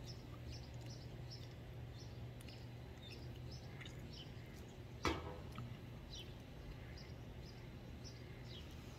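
Small birds chirping over and over in short high notes, with a steady low hum underneath. A single sharp knock about five seconds in.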